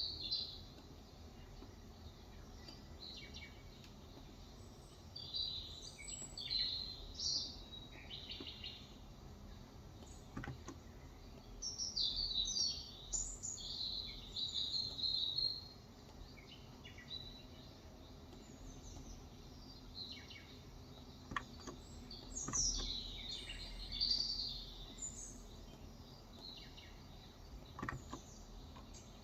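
Small birds chirping and twittering in repeated bursts, over a steady low background hum, with a few isolated soft clicks.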